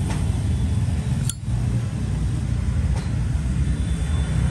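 A steady low rumble, with a sharp metallic click about a second in and a fainter click near three seconds, from a Zippo lighter being handled.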